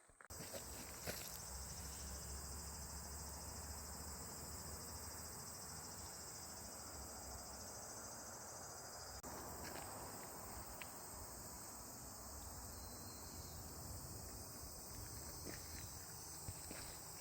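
Steady shrill chorus of insects, such as crickets or cicadas, with a few faint clicks and a low rumble beneath.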